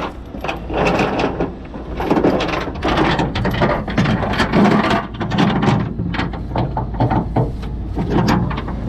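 Steel tow chains and hooks clanking and rattling as they are rigged around a truck frame, a string of irregular metal knocks over a low steady hum.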